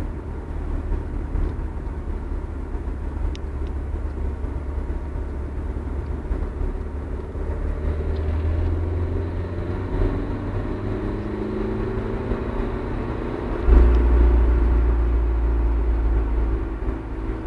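Opel Meriva driving and slowing on engine braking: a steady low rumble, with a faint high whine in the middle. About three-quarters of the way in the rumble suddenly grows louder and stays up.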